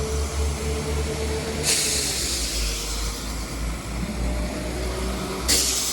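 West Midlands Railway Class 172 Turbostar diesel multiple unit pulling out of the platform, its diesel engines running with a steady low rumble and a held tone. A sharp hiss of air starts about a third of the way in and lingers, and another comes near the end.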